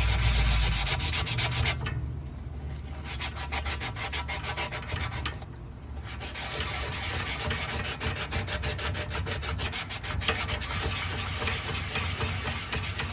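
Scotch-Brite pad scrubbed rapidly back and forth over a motorcycle tire's rubber with rubber prep, stripping the factory mold release film before a patch. The strokes come in a fast, even run that eases off briefly twice.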